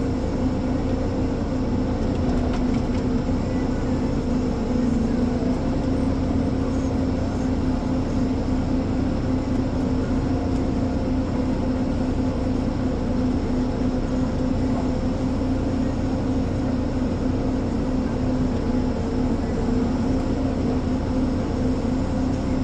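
Ponsse Elephant forwarder's diesel engine running steadily, a constant drone with a steady hum that holds its pitch throughout.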